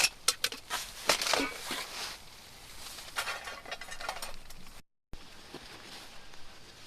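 Close handling sounds: a quick series of sharp clicks and knocks with rustling, then a few scuffing bursts, with a brief cut to dead silence about five seconds in.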